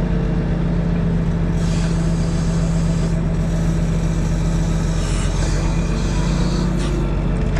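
Diesel engine of a Kenworth self-loading log truck running steadily at a constant speed while the truck's loader is in use; its tone changes slightly near the end.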